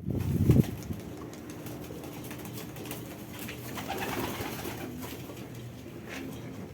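Pigeon cooing, loudest in a low burst within the first second, with faint scattered clicks.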